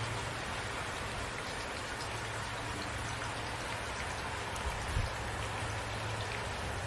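Steady rain falling at night, an even hiss with scattered drops ticking on surfaces and a soft low thump about five seconds in.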